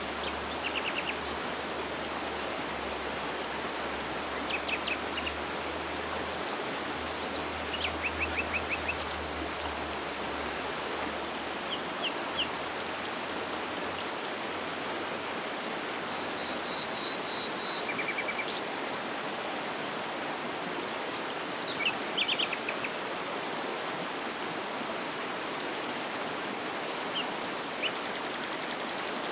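A waterfall running steadily, with small birds chirping over it in short, quick runs of high notes every few seconds.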